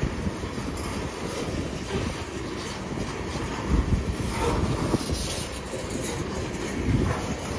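Coal train's freight cars rolling past, steel wheels rumbling on the rails, with a few sharper wheel clacks.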